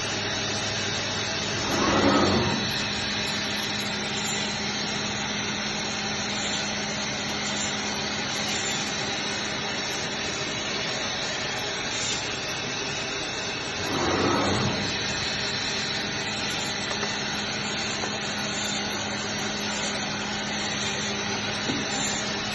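HY-420A automatic meat band saw running with a steady motor hum, its blade cutting through a leg of lamb. The sound swells twice, about 2 seconds in and again about 14 seconds in, each swell lasting about a second.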